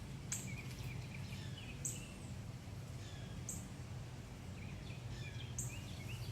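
Birds chirping: a short, very high note repeats about every one and a half to two seconds, with softer, lower chirps in between, over a steady low hum.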